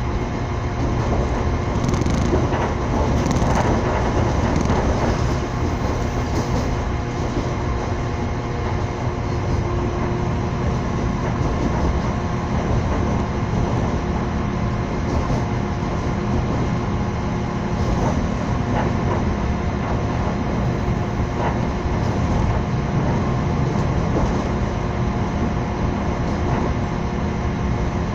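Train running along the track, heard from aboard: a steady rumble of wheels on the rails with a few steady tones and occasional faint clicks.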